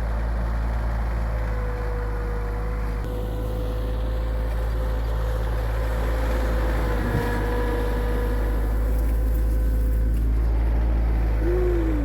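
Tractor engine running steadily under load, with a constant low rumble and a steady whine over it; near the end the whine's pitch drops.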